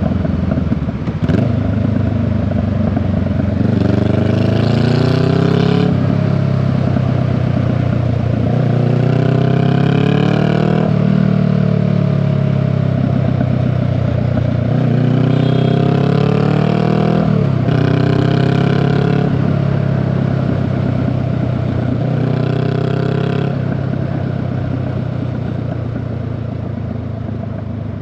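Honda Rebel 500 motorcycle engine and exhaust under way, pulling up through the gears: several rising runs of revs, each cut off by a gear change, then easing off near the end.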